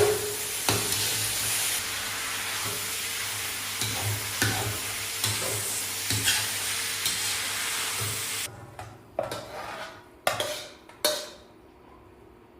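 Twice-cooked pork frying in a pan with steady sizzling while it is stirred, the spatula knocking on the pan every second or so. About eight seconds in the sizzling cuts off suddenly, and a few metal clanks follow.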